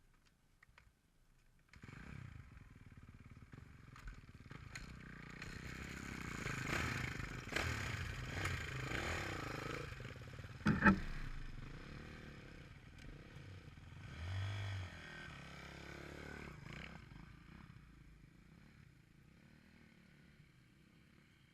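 Motocross dirt bike engine running and revving up and down as the bike goes by. It comes in about two seconds in, is loudest a few seconds later, then fades away. A single sharp knock comes about halfway through.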